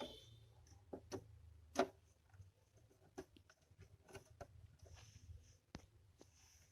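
Faint, irregular clicks and light knocks, about eight of them, the sharpest a little under two seconds in, over a low steady hum.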